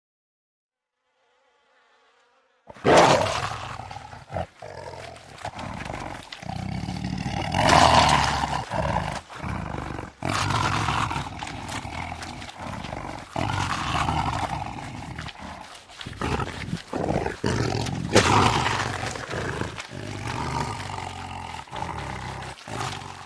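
Lion roaring and growling: after a few seconds of silence, a run of rough, loud roars with short breaks between them, the strongest about three, eight and eighteen seconds in.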